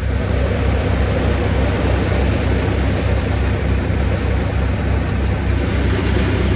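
Tractor engine running steadily with a low, even throb, mixed with the constant rushing noise of the threshing machine it drives.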